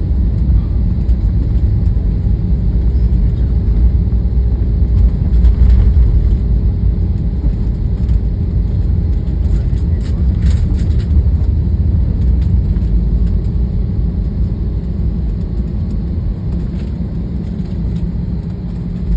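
Airliner cabin noise during landing: a loud, steady low rumble of engines and runway. It grows gradually quieter over the last several seconds.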